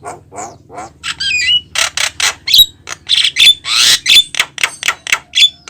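Javan myna (jalak kebo) calling over and over: a quick string of short harsh squawks and rasping notes, mixed with sharp whistles that bend up and down, and one longer rasping call about halfway through.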